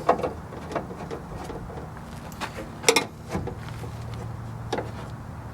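Scattered clicks and knocks from hands working a car window's glass and its manual regulator inside the door, with the sharpest knock about three seconds in, over a steady low hum.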